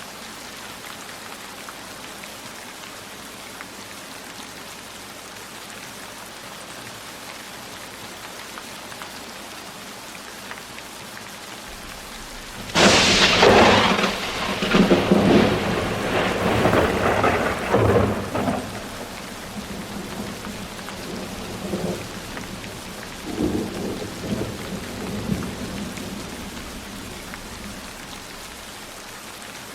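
Steady rainfall with a sudden loud thunderclap a little before halfway, which rumbles for several seconds and then rolls away in fainter rumbles before the rain carries on alone.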